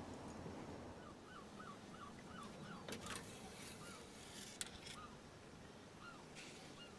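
Faint bird calls: a quick run of short chirps, then scattered single calls, over a low outdoor background, with a couple of light clicks.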